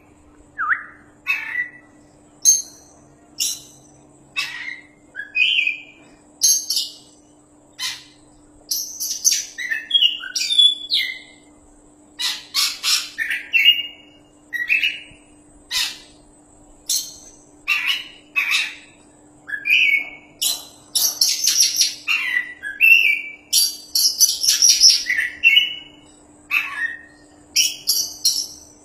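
Oriental magpie-robin (kacer) singing continuously: a fast run of short, varied whistles, sharp sweeping notes and chattering phrases with only brief pauses, over a faint steady hum.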